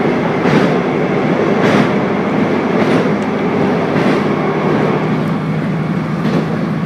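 Diesel railcar running along the line, heard from inside the car. A steady engine and running drone is overlaid by a light click from the wheels about once a second.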